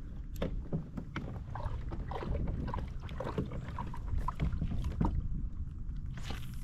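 Light knocks and clicks of gear handled on a fishing kayak, over a steady low rumble of water and wind on the microphone.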